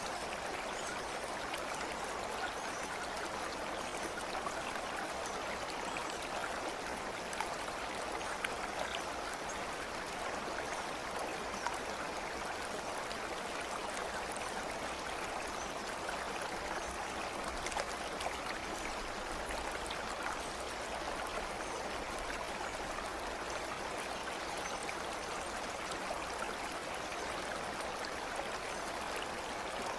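Stream water running steadily, an even rush with faint small splashes throughout.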